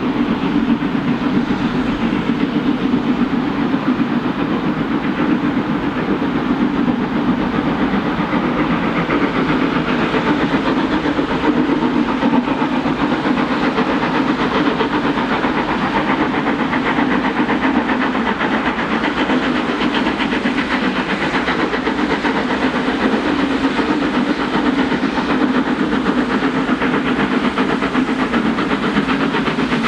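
Steam locomotive 46100 'Royal Scot', a three-cylinder 4-6-0, running with its train: a loud, steady rush of steam and hiss with no let-up.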